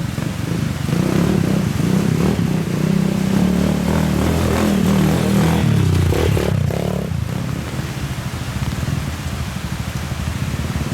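Motorcycle engine running under way, its revs rising and falling, then easing off to a lower, steadier note after about seven seconds.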